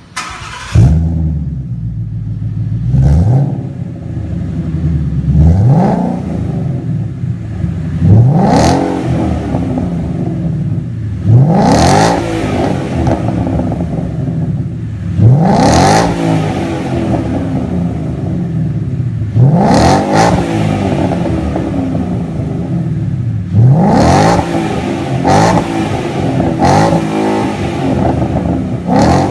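Ford Coyote 5.0 V8 revved again and again through a true dual 3-inch stainless catback exhaust with an X-pipe and free-flowing mufflers. Each rev climbs sharply and then falls back, about every three to four seconds.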